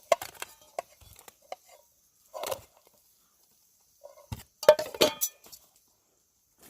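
Camp cookware and utensils clinking and knocking: scattered light clicks, a short scrape about two and a half seconds in, then a louder clatter of knocks about four and a half seconds in.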